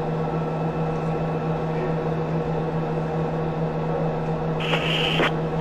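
Steady electrical hum and hiss of the launch broadcast's radio communications line, with a few constant tones. A short burst of radio noise comes in near the end, like a channel opening.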